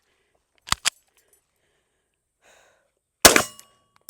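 Two sharp clicks as the pistol is readied, then about three seconds in a single loud shot from a Springfield Armory Prodigy 4.25-inch 9mm pistol, with a metallic ring after it.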